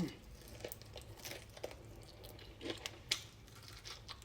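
Quiet eating sounds from fried chicken wings: faint scattered clicks and crinkles of chewing and tearing at the crispy chicken, a few light ticks a second apart.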